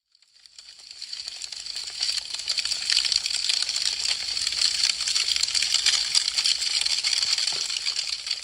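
Wood fire crackling, a dense run of small sharp pops and snaps from burning branches. It fades in from silence over the first couple of seconds, then holds steady.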